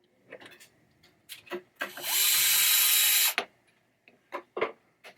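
Electric screwdriver running in one steady burst of about a second and a half, near the middle, among small clicks and taps of metal parts being handled.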